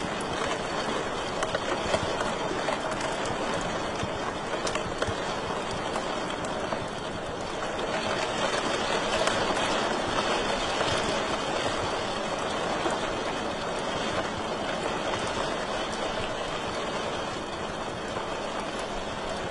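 Wood fire burning in a fireplace: a steady crackling hiss dotted with many small sharp pops.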